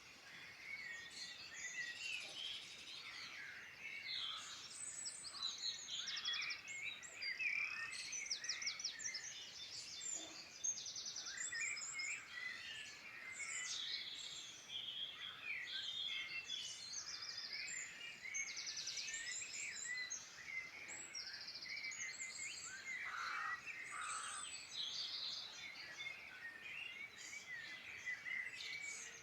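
Several songbirds singing at once, a dense, overlapping mix of chirps, warbles and rapid trills.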